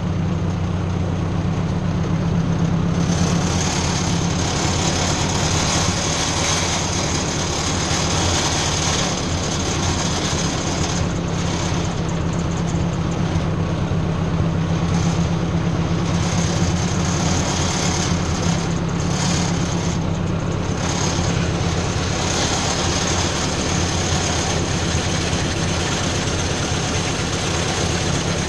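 Ford 600 tractor engine running steadily, with a constant low drone.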